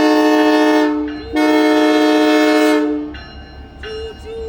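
CPKC Holiday Train locomotive's multi-chime air horn sounding a chord in two loud blasts: the first ends about a second in, and a longer second blast follows and stops about three seconds in.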